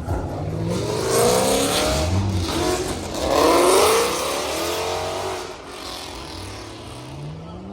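A car's engine revving hard as it accelerates, its pitch climbing twice, about a second in and again about three seconds in, then fading away.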